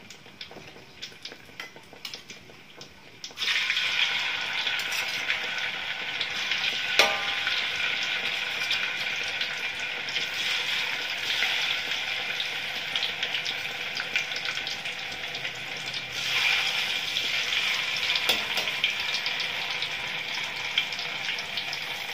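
Tofu frying in oil in a wok: a faint sizzle at first, the oil not yet fully hot. About three seconds in the sizzling jumps suddenly to loud and stays steady as more pieces go into the oil, with a knock of the spatula against the pan about seven seconds in and another rise in the sizzle later on.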